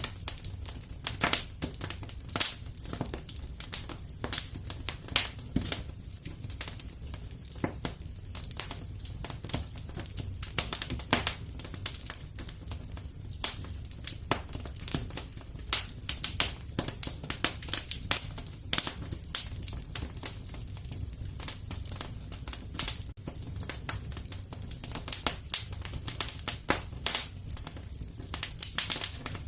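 Fireplace fire crackling: irregular sharp snaps and pops, several a second, over a steady low rumble.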